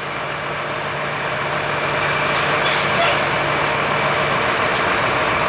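Stock farm tractor's diesel engine running steadily, gradually growing louder, with a brief hiss about two seconds in.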